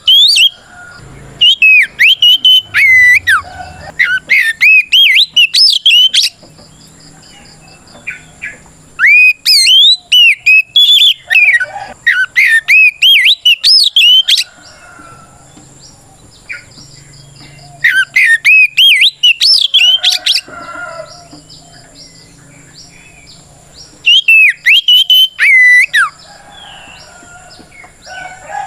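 Oriental magpie-robin singing a loud, clear whistled challenge song of quick rising and falling notes, delivered in four bouts with pauses of a few seconds between them.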